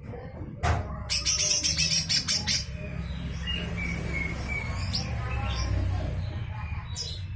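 Green leafbird (cucak hijau mini) giving harsh, rasping scold calls (besetan kasar): a sharp call, then a rapid run of about eight rough strokes in a second and a half, then a few scattered calls over a low steady hum.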